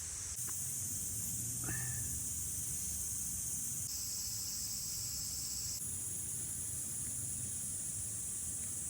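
Steady high-pitched insect chorus, like crickets or cicadas, outdoors over a low rumble. It changes pitch abruptly a few times, with a short falling chirp about two seconds in.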